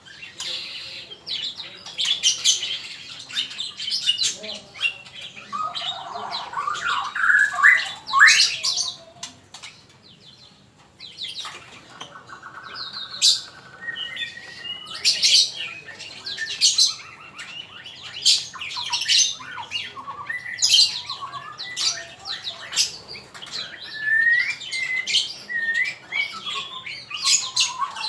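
Male murai (white-rumped shama) singing a varied song of whistles, quick sharp notes, short pitch glides and harsher chattering phrases, with a short lull about ten seconds in.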